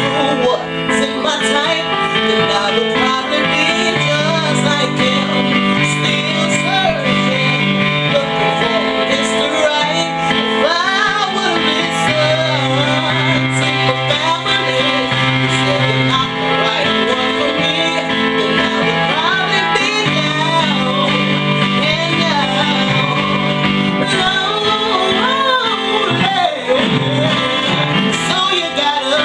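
A 25-key keyboard playing sustained R&B chords over low notes that change every few seconds, with wordless sung runs over it.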